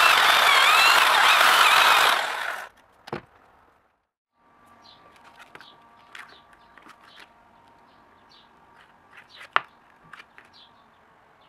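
A power tool running loudly with a wavering whine for about two and a half seconds, then cutting off. Then faint workshop quiet with a few light clicks and one sharp tap near the end.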